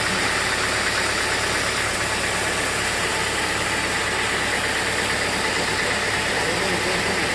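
Sawmill machinery running steadily, an even mechanical noise that does not change.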